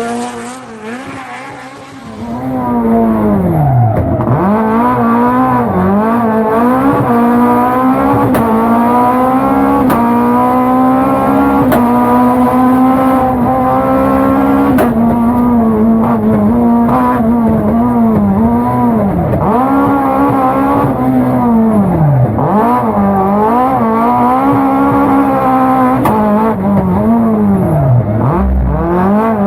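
Fiat 131 Abarth rally car's four-cylinder engine running hard through the gears at a rally stage, pitch climbing and then dropping sharply again and again as it shifts, with deeper dips as it slows. It is quieter for about the first two seconds, then loud.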